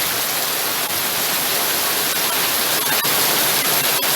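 Steady rain falling, an even hiss with a few sharp ticks of drops striking a surface.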